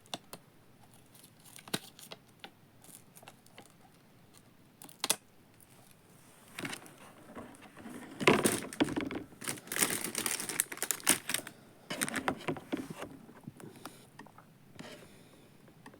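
Handling noise from small plastic parts and packaging: scattered clicks, then a busy stretch of crinkling and rustling from about the middle until near the end.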